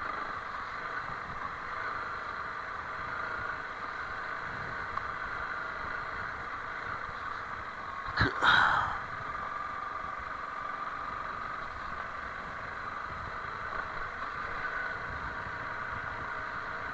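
Honda CRF300L Rally's single-cylinder engine running steadily while riding a rough dirt track. About eight seconds in, a sharp knock and a brief louder rush break through.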